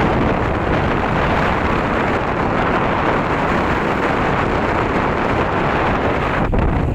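Storm wind blowing hard across the microphone aboard a ferry at sea: a loud, dense, steady rushing noise that briefly thins near the end.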